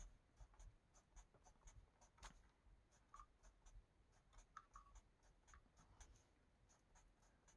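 Marker tip scratching on paper in quick short colouring strokes, about three or four a second, faint.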